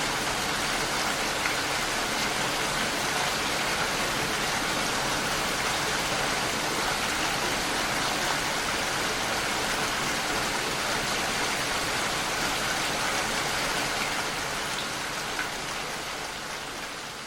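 Steady heavy rain falling in a dense even patter, fading out gradually over the last few seconds.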